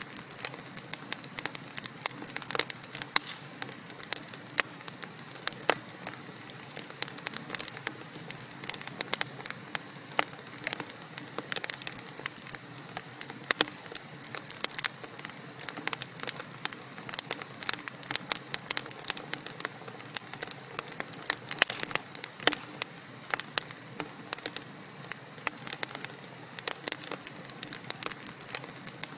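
Wood fire burning in a fireplace: a steady low hiss with frequent sharp crackles and pops from the burning logs, several a second.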